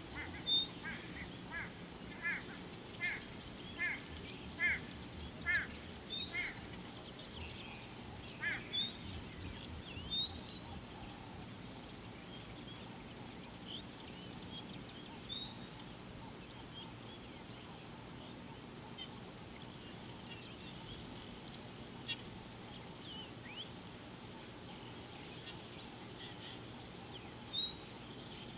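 Wild birds calling. One bird gives a run of about ten short, repeated calls over the first six seconds, spacing out as it goes. Higher chirps and whistles from other birds come and go after that.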